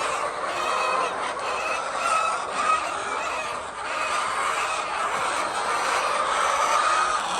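A large flock of laying hens clucking and calling over one another in a steady din.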